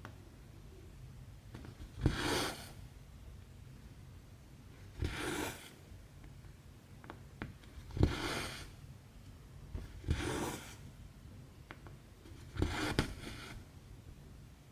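Cross-stitch needle and embroidery floss working through 11-count stamped cross-stitch fabric: a sharp tap as the needle pierces the cloth, then a short rasping swish as the thread is drawn through. This comes five times, every two to three seconds, with a few faint clicks between.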